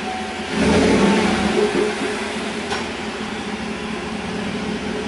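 A vehicle engine running, swelling louder about half a second in and then running steadily.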